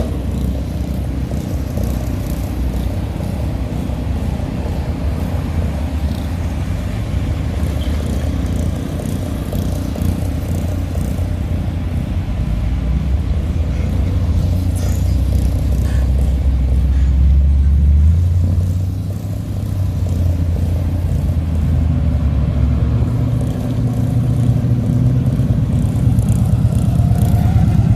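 Hot rod and classic car engines running with a deep exhaust rumble as cars drive past one after another. The rumble eases briefly about two-thirds of the way through, then builds louder near the end as the next car comes by.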